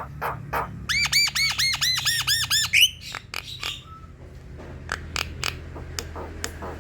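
Javan myna singing: a run of sharp clicks, then a rapid string of about ten arched, ringing notes over some two seconds, ending in a short rising note and a few scattered clicks.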